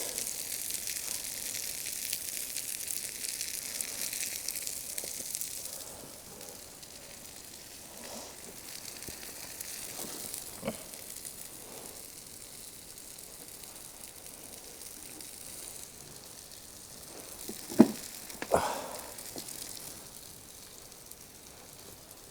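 Chicken sizzling on an iron griddle plate over a Swedish torch log fire: a steady hiss, loudest for the first six seconds and then quieter. A few sharp clicks come near the middle and about three-quarters of the way through.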